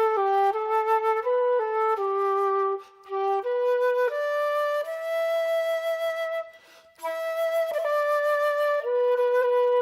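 A flute playing a single slow melody line, moving note to note about every half second, with a longer held note in the middle and two brief pauses for breath, about three seconds in and near seven seconds.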